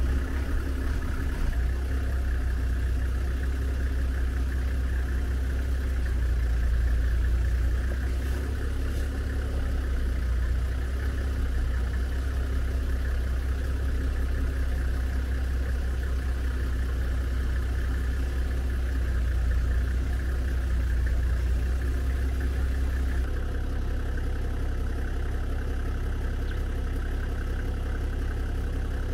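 Vehicle engine running steadily at low speed with a deep rumble, which eases to a quieter hum about 23 seconds in.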